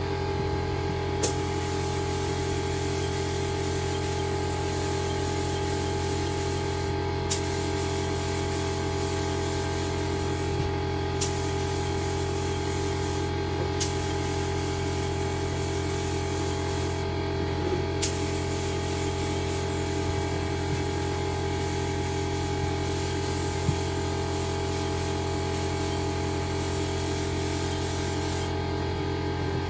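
A paint spray gun hisses in repeated bursts of several seconds as its trigger is pulled and released, laying a coat of thinned candy paint; each burst starts with a click. A steady low hum runs underneath.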